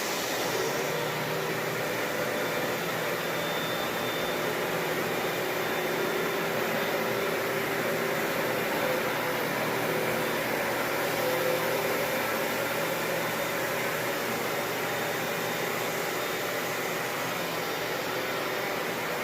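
Hoover Dual Power Max Pet upright carpet cleaner running steadily, its motor whirring with suction.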